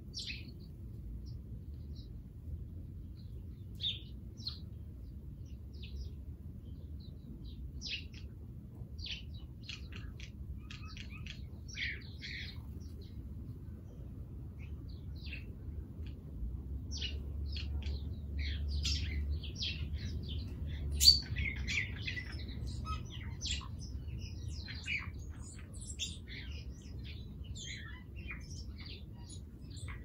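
Small birds chirping in many short, scattered calls, getting busier in the second half, over a steady low rumble. One sharp click stands out about two-thirds of the way through.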